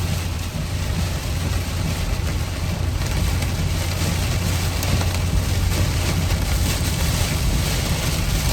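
Steady car cabin noise: a low engine hum under a broad rush of road and air noise, a little louder from about three seconds in.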